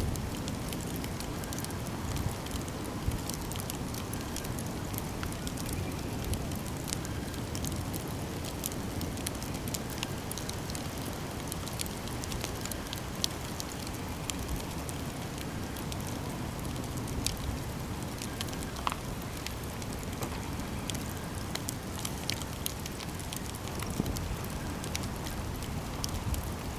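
Campfire burning with irregular crackles and sharp pops of burning wood over a steady low rumble of flames.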